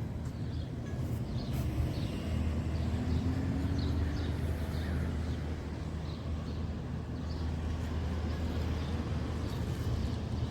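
Steady low outdoor rumble with many short, high chirps scattered over it.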